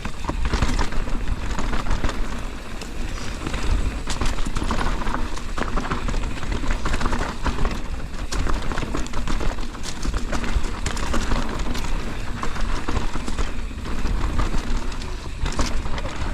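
Mountain bike, a 2023 Intense Primer S, descending a rough dirt trail: tyres rolling over dirt and rocks with a constant clatter and rattle of the bike, under a heavy low rumble of wind on the action camera's microphone.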